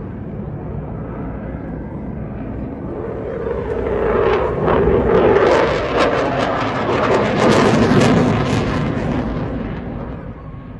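Jet aircraft flying past: the roar builds, peaks with a ragged crackle for several seconds, then fades away.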